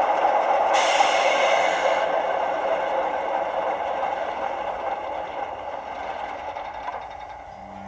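O gauge model train running with a steady rumble that slowly fades away, and a brief hiss of air about a second in.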